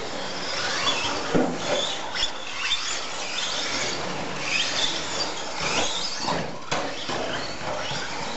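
Several radio-controlled stadium trucks racing on a dirt track, their motors whining up and down in pitch as they accelerate and brake, with a few short knocks.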